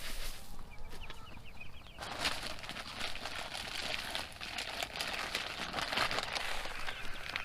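Cornish Cross meat chicks peeping in quick short chirps, followed from about two seconds in by a long stretch of rustling with many small clicks.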